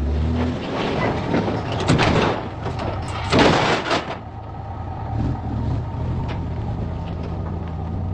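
Vehicle driving, its engine running steadily under road noise, with two short louder rushes of noise about two and three and a half seconds in.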